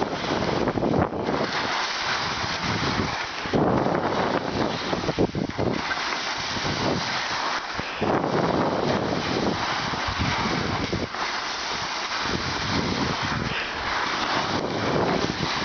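Wind buffeting the microphone, a rushing noise that swells and eases in gusts every second or two.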